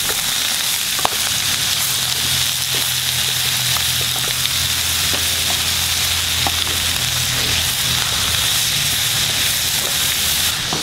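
Pork stir fry sizzling in a hot pan as chopped cilantro and green onions are stirred through it with a wooden spatula. A few sharp taps of the spatula on the pan stand out from the steady sizzle.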